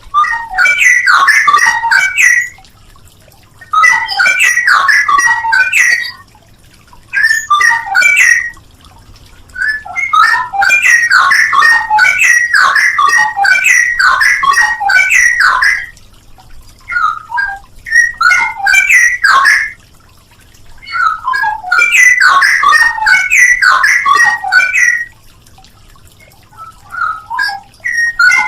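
Straw-headed bulbul (cucak rowo) singing loud, rich warbling phrases. The song comes in bursts a few seconds long, separated by short pauses.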